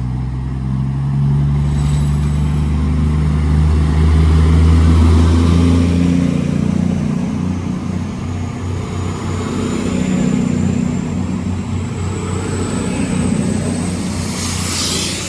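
CrossCountry Class 220 Voyager diesel multiple unit pulling away, its underfloor diesel engines running hard under power and swelling over the first few seconds. A thin high whine rises slowly in pitch as it gathers speed, and a short burst of hiss comes near the end.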